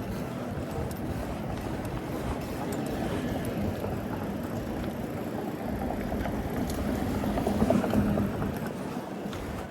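Street traffic noise, growing louder as a motor vehicle passes close about seven to eight seconds in.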